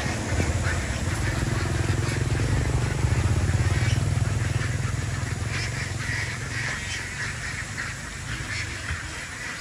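A flock of farmed ducks quacking, the calls rising and falling in clusters. Under them a low rumble builds, peaks a few seconds in and fades away before the end.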